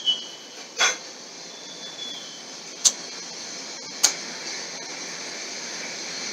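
Lovebirds' steady high-pitched chatter, with a brief thin whistle-like note and three sharp, short, loud sounds spread over the first four seconds.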